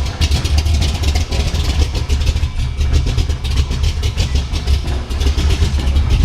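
Freshly built 412 cubic inch stroker V8, based on a 351 Cleveland, in a 1971 Ford Mustang Mach 1, idling loudly with a deep, rapid, uneven pulse from the exhaust.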